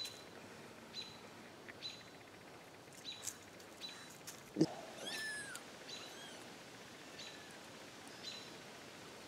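A small bird chirping steadily, about one short, high chip a second, with a brief louder call with falling pitch about five seconds in.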